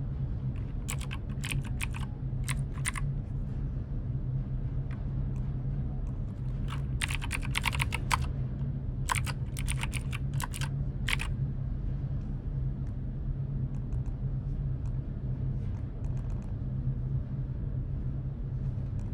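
Typing on a computer keyboard in short bursts of rapid key clicks with pauses between them, over a steady low hum.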